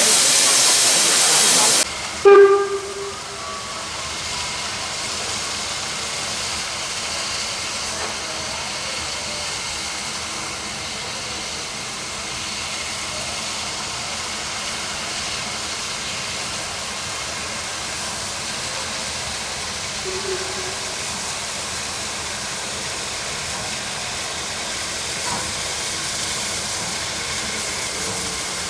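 Narrow-gauge steam locomotive: a loud hiss of escaping steam cuts off abruptly about two seconds in, followed at once by a short whistle blast. After that only a steady, quieter hiss and rumble of background noise.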